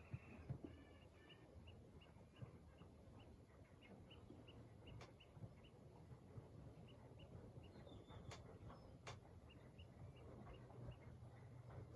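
Faint outdoor ambience: a small high chirp repeating about three times a second, pausing briefly near the middle, over a low steady hum, with a few sharp clicks.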